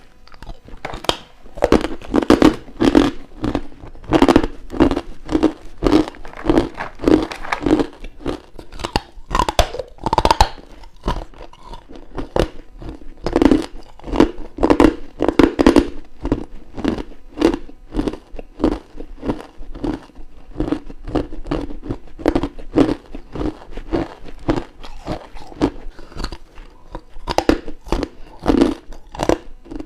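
Close-miked bites and chewing of crunchy frozen ice and frost: a continuous run of sharp crunches, one after another, throughout.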